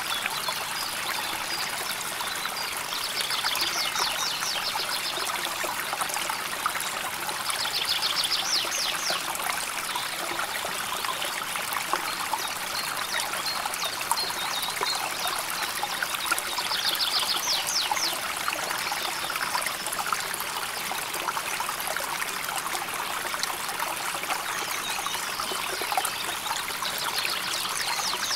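River water flowing and babbling steadily over stones. A bird gives a short, rapid high trill about four times.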